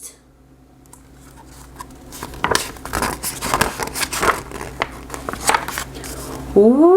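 Paper rustling and crackling, a quick run of small clicks and crinkles typical of picture-book pages being handled and turned. A loud rising siren-like wail starts near the end.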